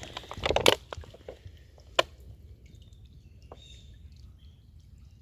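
Creek water running, with birds chirping in short high calls. A loud rustling burst comes near the start, and a single sharp click about two seconds in.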